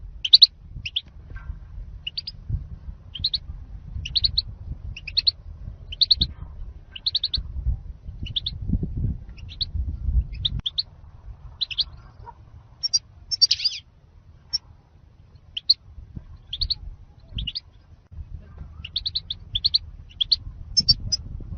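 European goldfinch calling: short high chirps in quick clusters of two or three, repeated about once a second, over a low background rumble.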